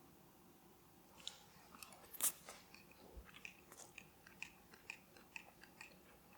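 A person chewing roast chicken, faint crunchy bites coming at a steady pace of about two a second, with one louder bite about two seconds in.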